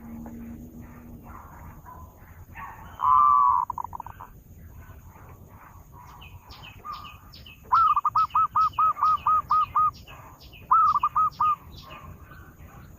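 Zebra dove (perkutut) calling: one loud call about three seconds in, then a rapid run of about nine short repeated notes and, near the end, a shorter run of four. Fainter high chirps from other small birds sound behind.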